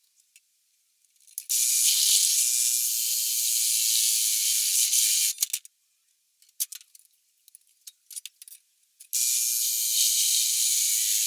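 Pneumatic air tool running in two bursts of a few seconds, each a steady high hiss of exhausting air, with scattered clicks and rattles in the pause between them.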